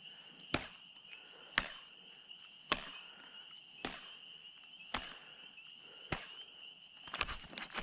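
Insects trilling steadily at a high pitch, with a sharp click about once a second and some scraping near the end.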